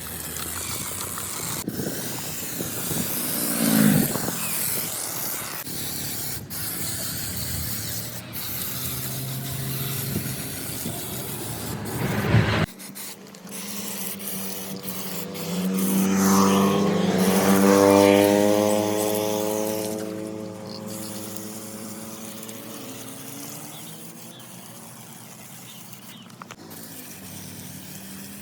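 Hand-pump pressure sprayer on a bottle spraying shampoo foam onto a motorbike: a steady hiss of spray. About halfway through, the sound cuts off abruptly, and a pitched drone made of several tones swells and then fades away.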